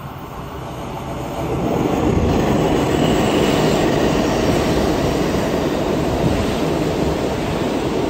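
Electric commuter train running past the platform close by: the rumble of wheels on the rails builds over the first two seconds, then holds steady and loud.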